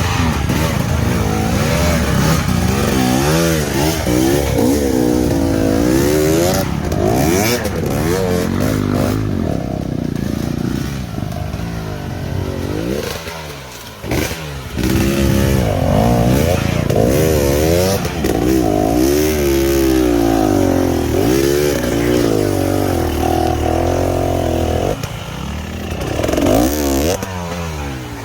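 Trail dirt-bike engine revving up and down again and again as it is ridden, its pitch climbing and dropping with the throttle. The engine eases off briefly about halfway through before pulling hard again.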